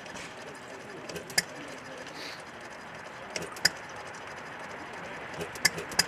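A slow-running antique stationary engine giving a pair of sharp metallic clicks about every two seconds: a faint one, then a loud one.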